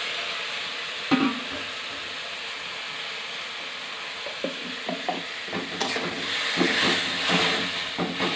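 Onion-tomato masala sizzling steadily in a kadai, just loosened with a splash of water because it was sticking. A steel spatula scrapes and knocks against the pan about a second in and several times more in the second half as it is stirred.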